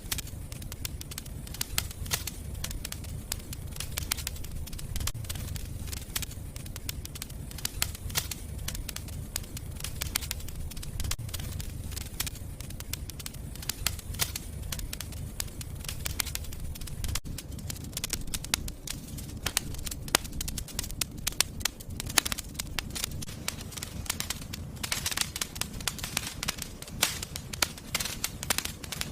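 Fire burning in a fireplace: continuous irregular crackling with frequent sharp pops over a steady low rumble.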